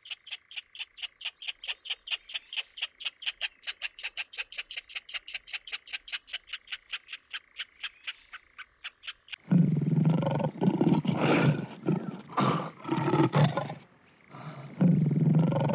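A rapid, even train of high chirps, about five a second, for roughly the first nine seconds. Then a lion roaring, much louder and deeper, in several bouts with short pauses.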